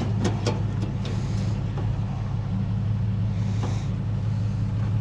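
Truck engine running at idle, a steady low hum, with a few light clicks near the start and two short rustling hisses.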